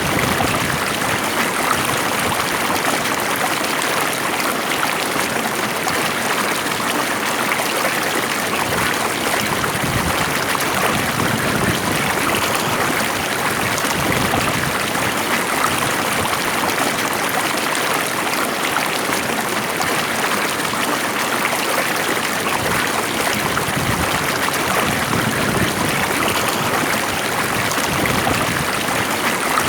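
Calm stream of flowing water running steadily, an even rushing and trickling with no breaks.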